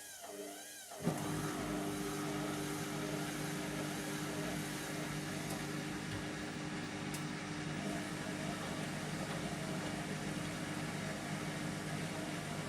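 Indesit MTWC71252WUK washing machine running. About a second in, the sound jumps abruptly louder into a steady motor hum and rush as the drum spins.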